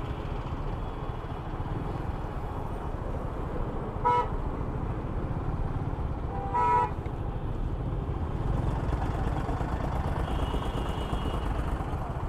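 Vehicle horn beeping twice, a short beep about four seconds in and a slightly longer one near seven seconds, over steady low engine and road noise from a motorcycle ride.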